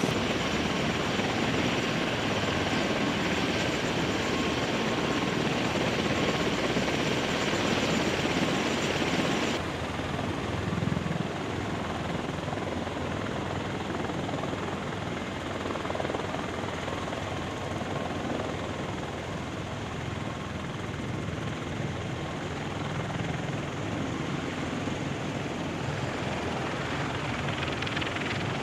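Military rotorcraft (MV-22B Osprey or CH-53E Super Stallion) turbine engines and rotors running steadily. The sound changes abruptly about ten seconds in, losing much of its high hiss.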